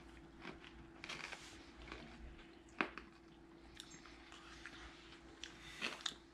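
Quiet chewing of a Cadbury Crunchie, a chocolate bar with a crunchy honeycomb toffee centre, giving a few faint crackles over a faint steady hum.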